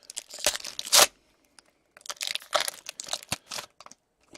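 Foil wrapper of a hockey card pack being torn open and crinkled, in two spells of crackling with a short pause between.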